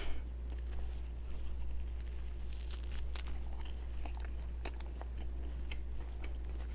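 A person biting into and chewing a milk-cream-filled doughnut: a sharper sound at the start, then scattered short mouth clicks.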